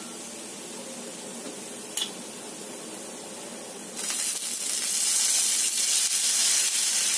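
Ground garlic-and-candlenut spice paste sizzling in oil in a wok, with a single click about two seconds in. About four seconds in the sizzle jumps much louder into a hiss as oyster sauce goes into the hot pan.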